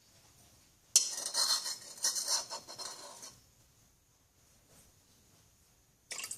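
Teaspoon scraping and clinking against a big glass bowl while stirring glue and borax solution into slime. It is loudest from about one to three seconds in, with a short scrape again near the end.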